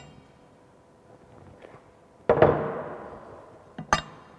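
Heavy steel parts of a hydraulic pipe bender knocking together as the bending former is fitted: a sharp clank at the start, a louder metallic clang about two seconds in that rings on for over a second, and two quick knocks near the end.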